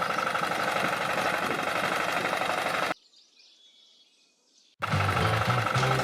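Steady, even noise with a fine rapid texture for about three seconds, cutting off abruptly; after a near-silent stretch, background music starts near the end.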